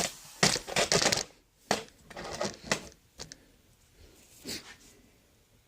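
Metal tools and engine parts being handled: a quick flurry of clinks and clacks, then scattered single knocks that thin out and stop.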